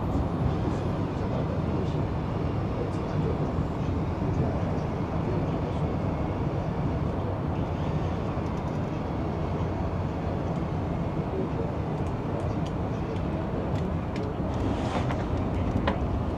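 Steady low rumble of a high-speed train running at speed, heard from inside the passenger compartment. A few clicks and knocks near the end.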